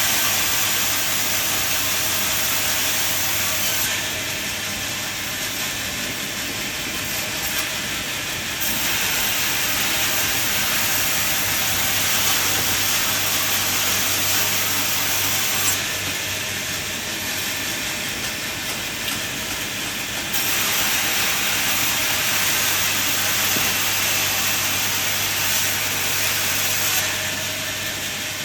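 Sawmill machinery running with a low steady hum and a loud hissing saw noise that gets louder and drops back in turns of several seconds, typical of the saw going through timber and then running free.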